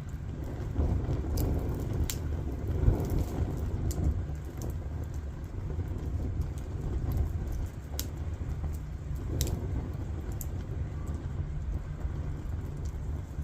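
Firewood burning with a steady low rumble of flames and scattered sharp crackles and pops from the logs.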